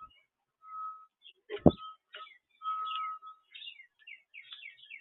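Backyard birds calling at a feeder: several steady whistled notes, then a quick series of descending chirps in the second half. A single sharp knock comes a little under two seconds in.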